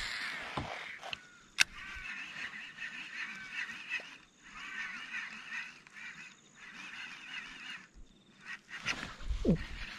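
Birds calling in bursts of many short, quick calls, several times over, with a single sharp click about one and a half seconds in.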